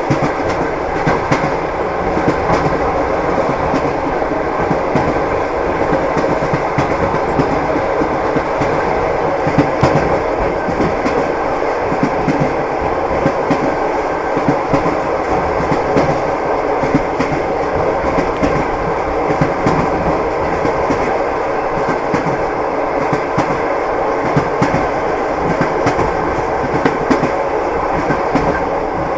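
Passenger train wheels running steadily over the rails, heard from inside the carriage: a continuous rumble with frequent clicking and clattering from the rail joints.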